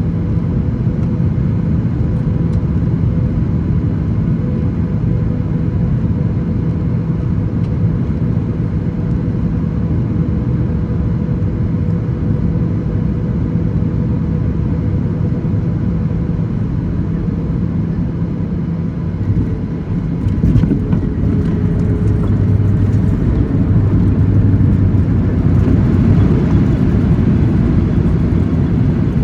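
Boeing 737-800 airliner's engines and airflow: a loud, steady rumble with a faint steady hum. About twenty seconds in, the rumble grows louder and rougher.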